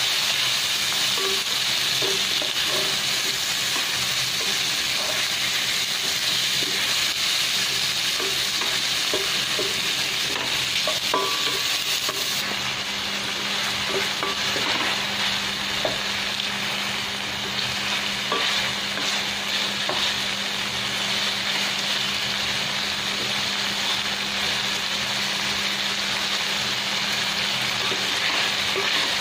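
Chicken pieces sizzling steadily as they fry in a stainless steel pot, with a wooden spatula stirring and scraping them around the pan now and then.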